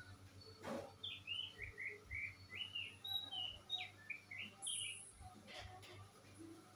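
A small bird singing a run of short, varied chirping notes, about two a second, with a single knock just before the song starts.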